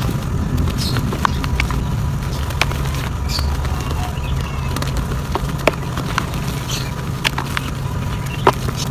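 Soft dirt crumbling by hand: scattered dry crackles and small sharp clicks, irregular and a few each second, over a steady low hum.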